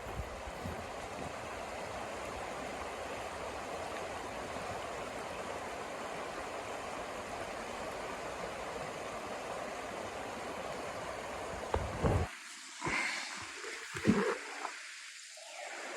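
A steady rushing noise that cuts off abruptly about twelve seconds in. A few short knocks and brief sounds follow over a quiet background.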